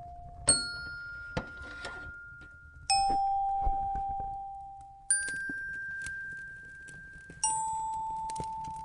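Slow, single bell-like chime notes struck about every two seconds, alternating a higher and a lower pitch, each ringing out and fading. Underneath, a fireplace crackles with scattered sharp pops over a low steady rumble.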